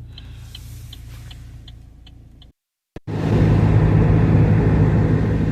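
Car engine idling with a turn signal ticking steadily, about two and a half clicks a second; after a brief cut about two and a half seconds in, the car is driving, with loud steady engine and road rumble.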